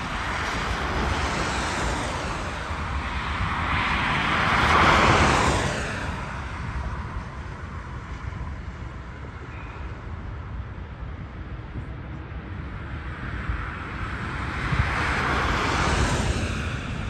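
Passing engine noise swells up and fades away twice, peaking about five seconds in and again near the end, over a steady low rumble and wind on the microphone.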